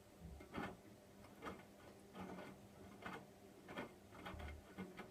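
Hotpoint washing machine on a cotton wash, its drum turning, with a run of soft knocks and clicks about once or twice a second over a low hum.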